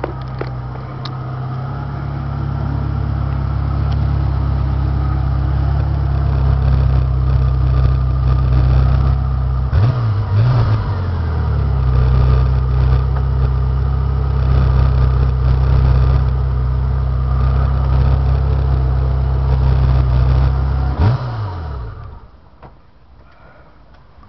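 Ferrari 348 tb's V8 engine, heard close to its twin exhaust tips: a steady low engine note with a quick blip of the throttle about ten seconds in and another sharp one near the end, after which the sound drops away.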